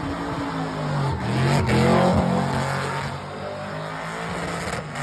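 Burnout car's engine held at high revs, the pitch dipping and climbing back about a second in, loudest around two seconds in.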